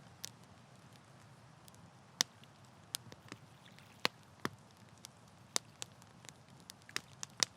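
Wood campfire crackling: irregular sharp pops and snaps over a steady low rush, a few of the pops much louder than the rest.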